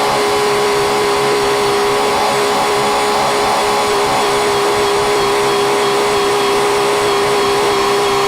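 Tractor running steadily at a constant engine speed, with a steady whine over its drone.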